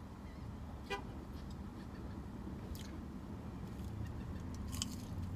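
A person eating French fries: soft chewing with a few short, sharp mouth clicks, over a low steady hum.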